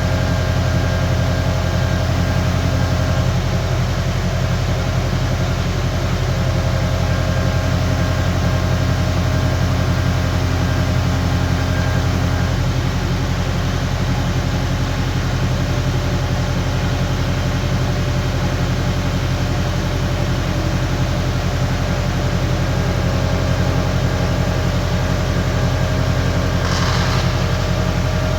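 Skid steer engine running steadily at constant speed, with a brief hiss near the end.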